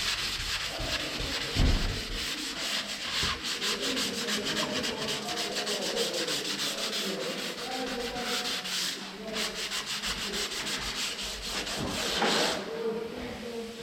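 Sandpaper rubbed back and forth by hand over a car body panel, in quick, even strokes several times a second.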